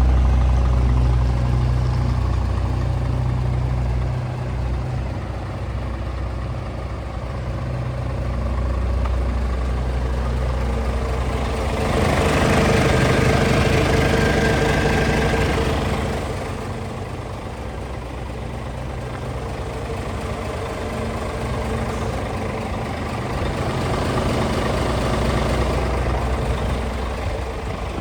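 Scania R450 tractor unit's 13-litre straight-six diesel running at idle, a steady low hum, growing louder and fuller for a few seconds about halfway through before settling back.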